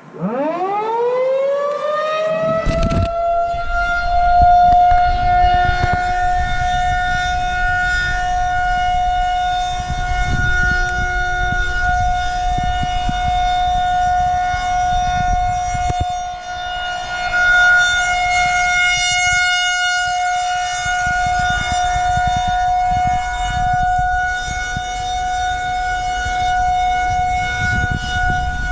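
Federal Signal 2001-130 electromechanical siren winding up from a standstill, its pitch rising over about three seconds to one steady tone, then held as a steady alert signal during a test. The level swells and dips slightly while the tone holds.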